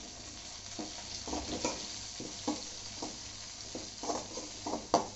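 Chopped shallots and curry leaves sizzling in hot oil in a metal kadai, stirred with a metal spatula that scrapes against the pan in irregular strokes. A sharp knock of the spatula on the pan just before the end.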